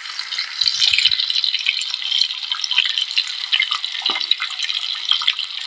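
Shrimp frying in hot oil in a pan: a steady sizzle full of small crackles and pops.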